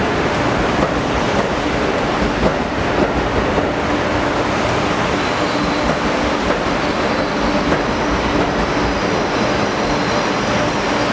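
Amtrak Acela trainset rolling past at the platform: a steady rumble of wheels on rail with occasional clacks. A faint high whine comes in about four seconds in.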